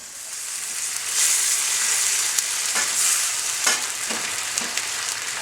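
Chicken pieces sizzling in a hot frying pan of butter and yogurt as the yogurt's liquid cooks off. The sizzle gets louder about a second in, with a few short scrapes or knocks, typical of a spoon stirring the pan.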